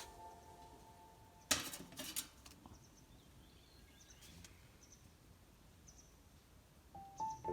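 Background music trailing off. About a second and a half in comes a short cluster of sharp knocks, then faint, short, high bird chirps repeat in otherwise quiet surroundings. Music comes back in near the end.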